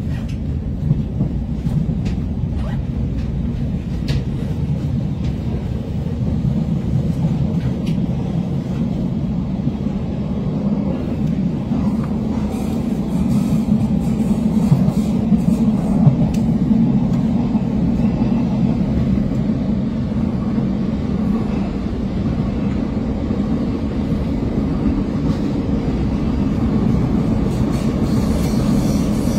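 Zugspitze railway train running steadily along the valley track, heard from inside the carriage: a constant low rumble of wheels and running gear, with a few light clicks.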